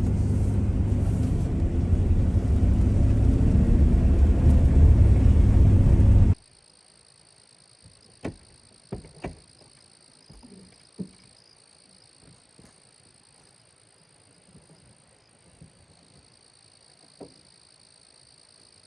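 Van driving on a dirt road, heard from inside the cab: a loud, steady low rumble of engine and tyres that cuts off suddenly about six seconds in. After that it is quiet, with a steady high-pitched hiss and a few scattered light clicks and knocks.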